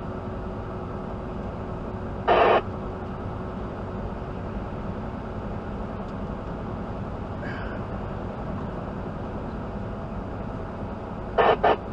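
Semi truck running at speed, heard from inside the cab as a steady drone of engine and road noise. A short, loud burst cuts in about two seconds in, and two more come near the end.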